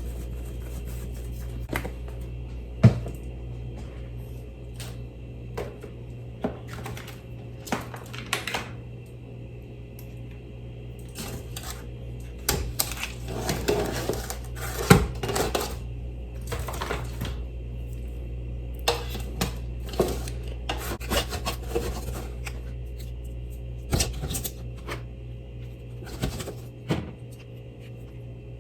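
Irregular clicks, cracks and knocks of crab shells and utensils being handled during a seafood meal, coming thicker in the middle, over a steady low hum.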